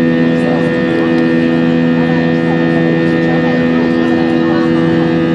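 Airbus A320-200 jet engines heard from inside the passenger cabin during the climb after takeoff: a loud, steady drone with several held tones over a rushing hiss.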